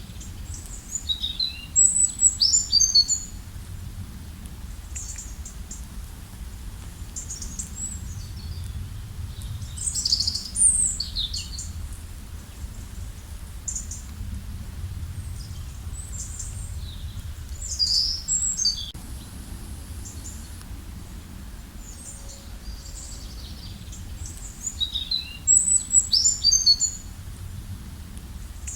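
Songbirds singing in short, quick, high twittering phrases about every eight seconds, over a steady low rumble.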